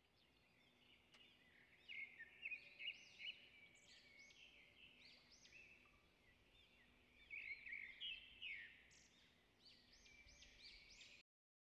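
Faint bird chirps in two short flurries of quick, high notes, one about two seconds in and another about seven seconds in, over near silence.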